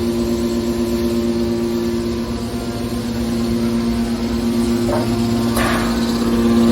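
Scrap metal baler's hydraulic power unit running with a steady, loud hum, with two brief scraping noises about five seconds in.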